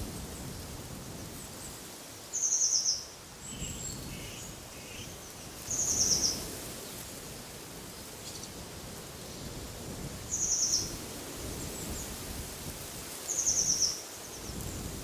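A songbird repeating a short, high, rapid trill four times, about every three to four seconds, with a few fainter chirps between. Under it runs a steady rush of wind in the trees.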